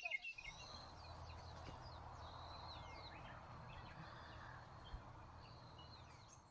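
Small songbirds chirping, a burst right at the start and then faint scattered calls, over a steady rushing background noise with a low rumble.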